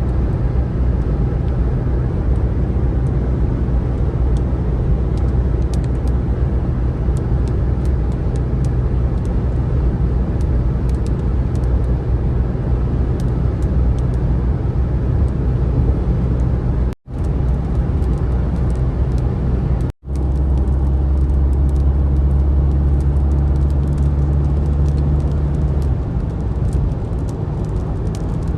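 A car being driven, with its engine drone and road noise heard steadily. The sound cuts out twice briefly, about 17 and 20 seconds in. After the second gap the low engine hum is steadier and stronger.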